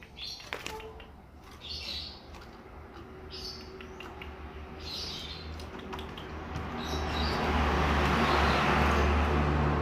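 Bullfinch giving short, high calls about every second and a half. From about seven seconds in, a louder steady rushing noise with a low hum takes over.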